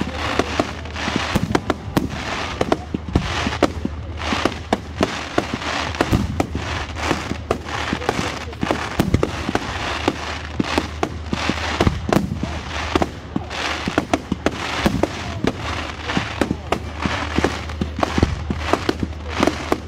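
Fireworks display: aerial shells bursting overhead in a rapid, unbroken series of bangs and crackles.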